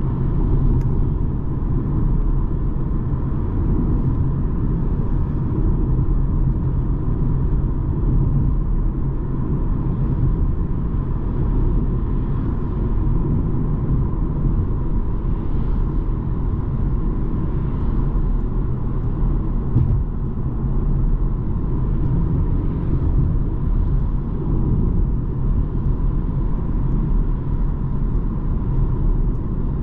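BMW 220d xDrive's four-cylinder diesel car driving at a steady pace: an even, low road and engine rumble with no gear changes or events.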